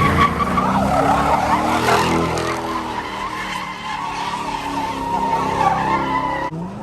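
A car's tyres squealing steadily on pavement while its engine revs up and down.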